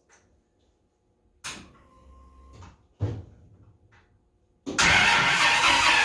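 A brief electric hum and a click, then from about two-thirds of the way in the M715's V10 engine is cranked loudly and steadily by its starter without firing. The engine is getting no spark.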